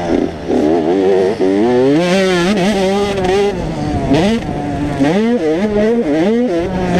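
85cc two-stroke motocross bikes running on the track, their engine pitch rising and falling as the throttle is worked, with more than one engine heard at once.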